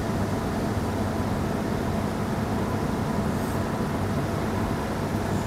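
Steady low hum of a vehicle idling, heard from inside the cab.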